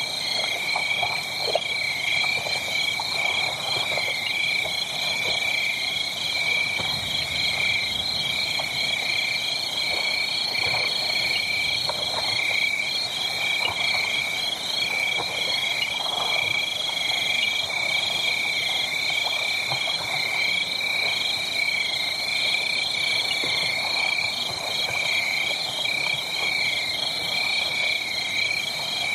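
A dense, steady chorus of high-pitched pulsing animal calls at several pitches at once, over faint scattered crackling from a wood fire.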